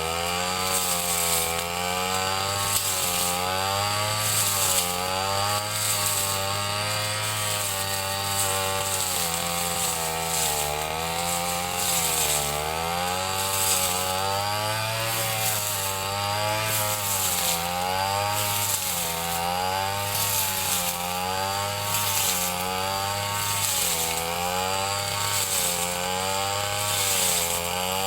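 Ryu 30.5 cc two-stroke brush cutter running while cutting grass, its engine pitch rising and falling every second or two as the load on the cutting head changes.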